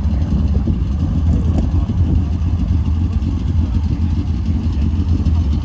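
A car engine idling: a steady low rumble that holds level throughout.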